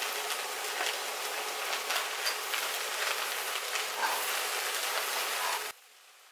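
Riced cauliflower sizzling and crackling as it is tipped into a hot oiled skillet of sautéed vegetables and stirred with a spatula. The sizzle cuts off abruptly shortly before the end.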